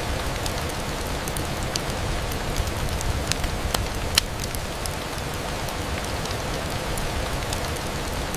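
Steady rain with scattered sharp ticks and pops through it, the loudest about four seconds in.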